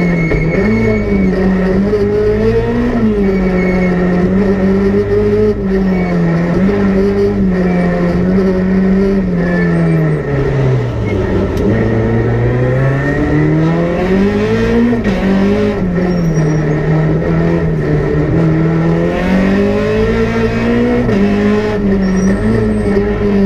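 Peugeot 208 R2 rally car's 1.6-litre four-cylinder engine, heard from inside the cabin, revving up and down through gear changes. About ten seconds in the revs fall away low, then climb steadily back up.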